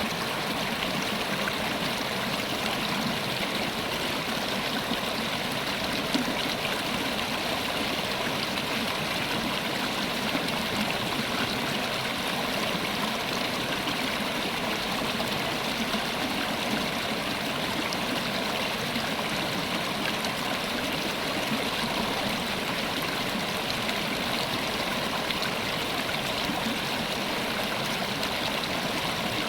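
River water flowing with a steady, even rushing and gurgling that does not change.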